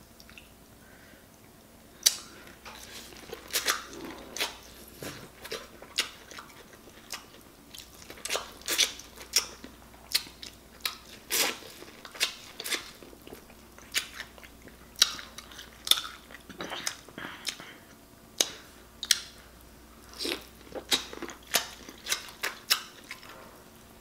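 Close-up wet chewing and lip-smacking of a boiled potato coated in seafood-boil sauce: a quick, irregular run of smacks and clicks starting about two seconds in.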